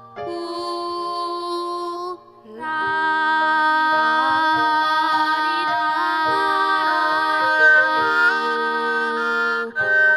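Voices singing sustained notes in several-part harmony, with a brief break about two seconds in.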